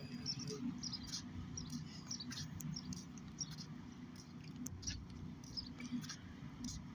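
Small birds chirping, short high-pitched calls scattered irregularly over a low, steady rumble.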